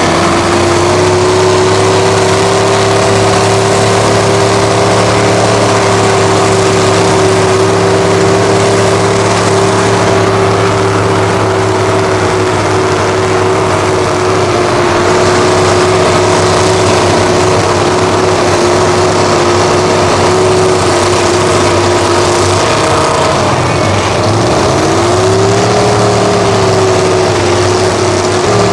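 An off-road vehicle's engine running hard at a steady high pitch, dropping briefly about 24 seconds in and then climbing back up.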